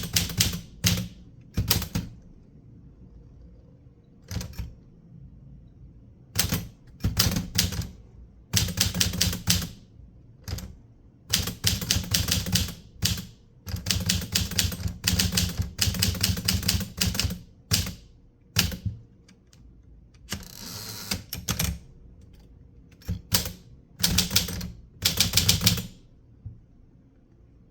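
Typewriter keys striking in bursts of rapid clacks with short pauses between words and phrases, with a brief rasping sound about twenty seconds in; the typing stops a couple of seconds before the end.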